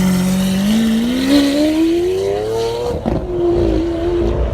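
Supercar engine accelerating: its note climbs steadily for about three seconds, drops sharply at a gear change, then runs on steady.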